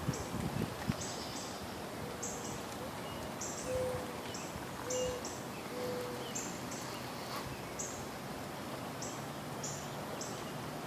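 A bird's low hooting call of four short notes, over repeated high chirping and a steady outdoor hiss.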